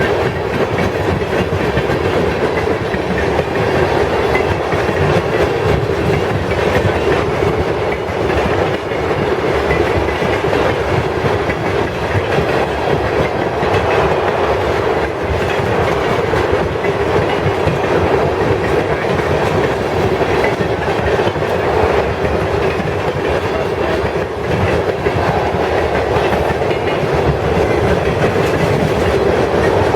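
Freight train cars rolling past, a steady rumble of steel wheels on rail with clickety-clack from the wheels crossing the rail joints.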